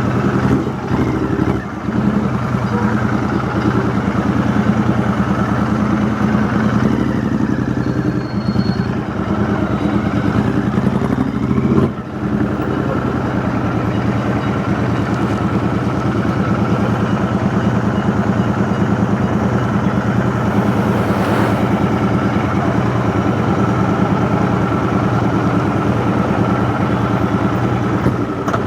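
Royal Enfield Interceptor 650's 648 cc parallel-twin engine running through a custom 2-into-1 exhaust at a steady throttle, heard from the rider's position. The engine note dips briefly twice, about two seconds and twelve seconds in.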